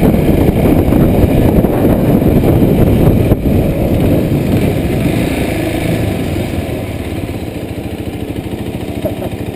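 Kawasaki Super Sherpa's single-cylinder engine running, heard over wind rush on the rider's chest. About three seconds in it drops off sharply and fades to a quieter, steadier running as the bike slows.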